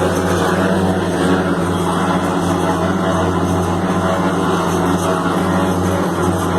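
Heavy construction machine's diesel engine running at a steady speed, a constant loud drone.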